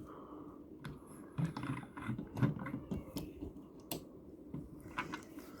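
Scattered light clicks and soft taps of small die-cast toy cars being handled and set down.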